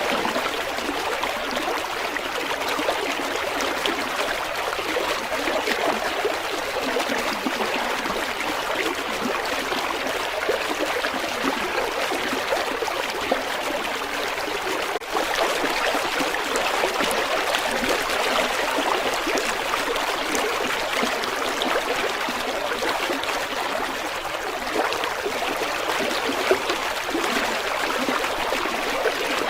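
River water flowing steadily, an even rush of water with little deep rumble, with a momentary break about halfway through.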